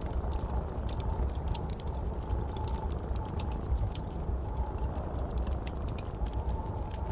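Fire burning in a fireplace, crackling with many irregular sharp pops over a low steady rumble.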